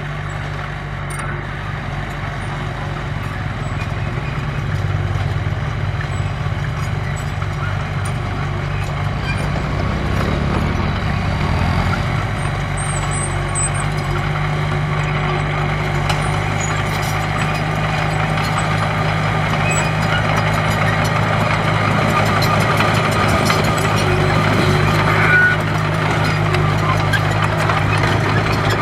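Diesel engine of heavy earthmoving equipment running under load, with a change in engine note about eleven seconds in, growing gradually louder.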